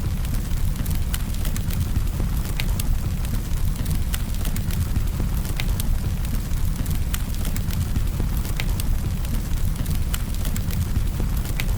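Campfire burning: irregular sharp crackles and pops over a steady low rumble.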